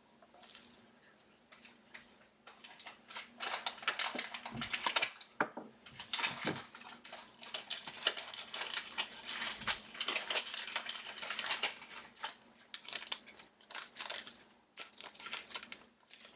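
Dense, irregular crinkling and rustling of plastic and foil packaging as trading cards are handled and their wrappers or sleeves worked open.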